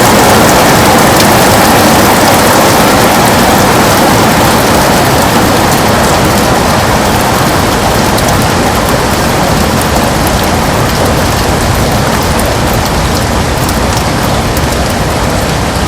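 Heavy rain falling steadily on a window: a dense hiss with scattered drop ticks, easing slightly over the seconds.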